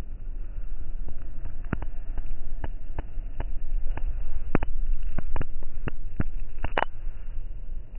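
Raindrops tapping close to the microphone as irregular sharp ticks, a few a second, over a steady low rumble.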